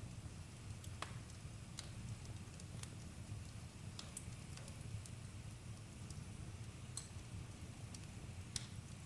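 Campfire crackling, with a few sharp, irregular pops over a low steady rumble.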